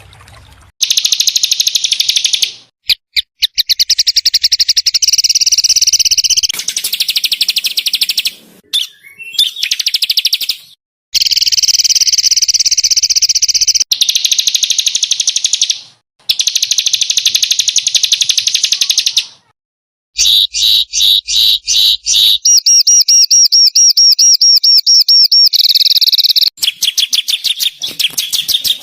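Small songbirds from a mixed bird-tutoring recording, singing loud, harsh rapid-fire trills. Each trill is a high run of very fast repeated notes lasting a few seconds, and the runs are separated by brief, abrupt pauses.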